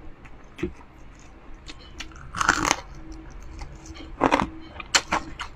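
Biting into and chewing crispy fried pork, with loud crunches of the crispy skin about halfway through and again a little after, then a run of short crackly crunches near the end.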